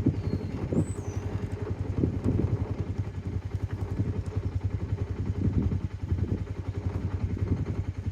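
A vehicle engine running with a low, uneven rumble.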